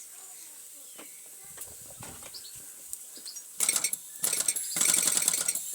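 Faint clicks, then, from about three and a half seconds in, a Mamod SW1 toy steam wagon's steam engine chuffing rapidly in short spurts that become nearly continuous near the end.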